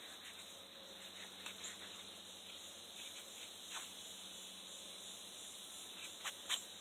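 Faint outdoor background with a steady high insect hiss, broken by a few soft clicks, two of them close together near the end.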